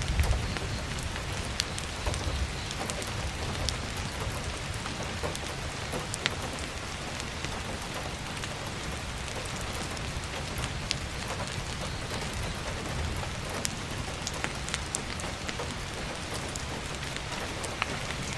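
Heavy rain falling steadily on an attic roof and skylight, with scattered sharp pops of burning firewood crackling and a low rumble underneath.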